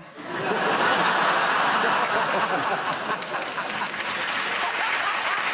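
Studio audience applauding and laughing in response to a punchline, starting suddenly, building within about half a second and then holding steady.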